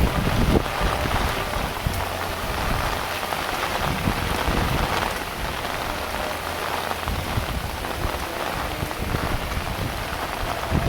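Heavy rain falling steadily, with gusts of wind rumbling on the microphone near the start and again through the second half.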